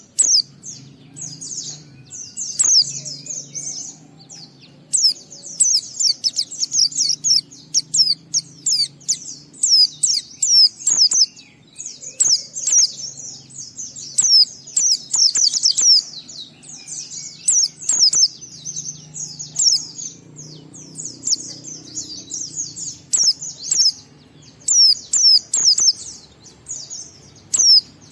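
White-eye (pleci) singing its long, fast 'ngalas' twittering song: rapid high chirps in runs of a second or two with short pauses between. A faint low hum lies underneath.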